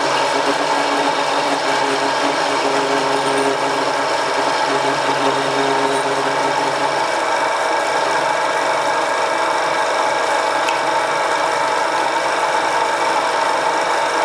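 Home-built mini metal lathe running steadily under its 750 W single-phase motor, a steady mechanical whir with several held tones. A low hum in it drops away about halfway through.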